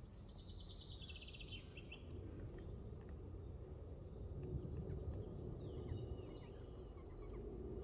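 A songbird singing: a fast trill falling in pitch in the first couple of seconds, then several more high chirping phrases. Under it is a steady low outdoor rumble.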